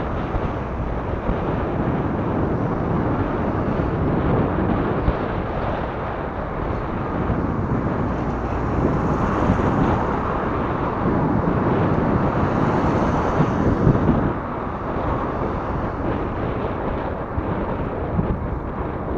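Wind blowing across the microphone on a moving recumbent bicycle, a loud, steady noise heaviest in the low end that eases a little about two-thirds of the way through.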